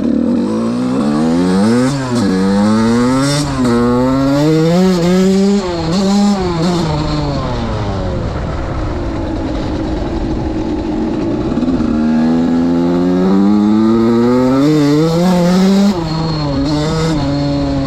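Suzuki RM85 two-stroke motocross engine being ridden, its pitch climbing and dropping again and again as the throttle is worked. It settles to a steadier, lower note for a few seconds in the middle, then climbs hard again before dropping sharply near the end.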